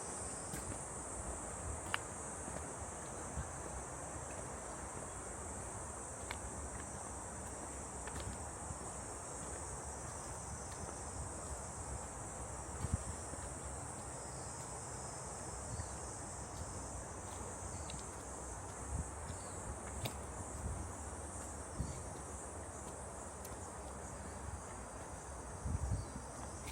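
A steady, high-pitched chorus of summer insects buzzing without a break, with a few soft thumps and clicks beneath it.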